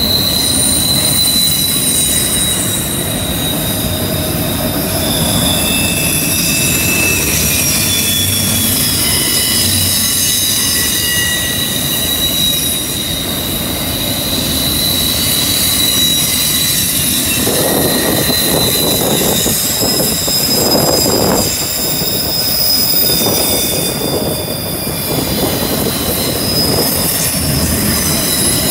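Freight train of autorack cars rolling past on a curve, its wheels squealing in several high tones that come and go over the steady rumble and rattle of the cars. A stretch of louder rattling comes about two-thirds of the way through.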